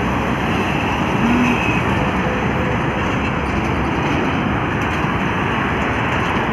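Heavy trucks running along a highway: a steady, unbroken wash of engine and tyre noise.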